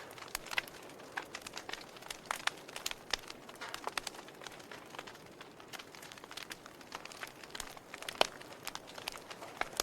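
Wood fire burning in a fireplace, logs crackling with irregular sharp pops over a soft steady hiss; one pop about 8 seconds in is louder than the rest.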